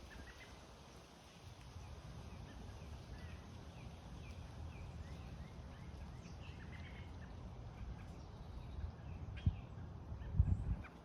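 Small birds chirping in short, repeated faint calls over a steady low rumble, with two dull thumps near the end.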